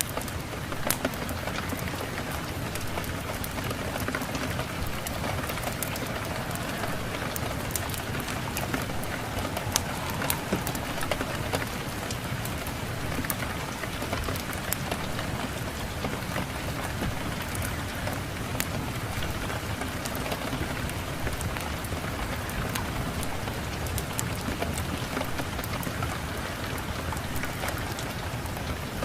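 Steady rain, with many sharp crackles and pops of a wood fire scattered through it.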